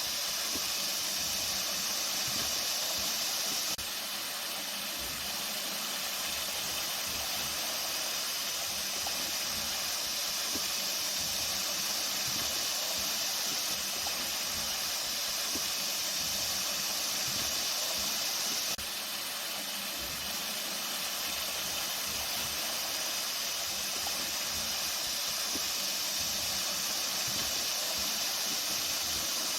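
Flowing water making a steady rushing hiss, with a slight drop in level twice.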